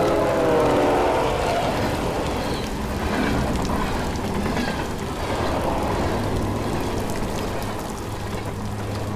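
Steady rain falling on water and wet ground, an even hiss of drops. A low steady hum joins it about six seconds in.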